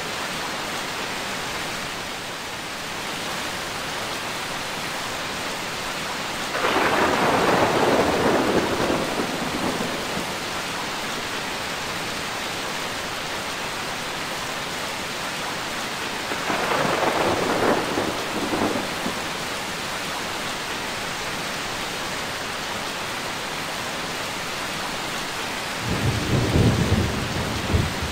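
Steady rain with three rolls of thunder: the loudest about seven seconds in, another around seventeen seconds, and a deeper one near the end.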